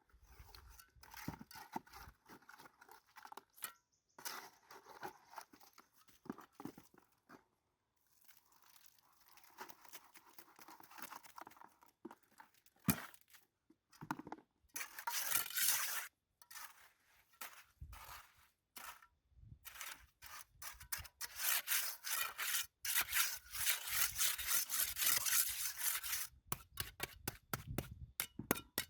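Masonry tools scraping and working wet concrete in short, repeated scratchy strokes, as the hollow blocks are filled and a rough cement floor is spread for the fireplace base. The sound breaks off abruptly several times, and the strokes come thickest and loudest in the second half.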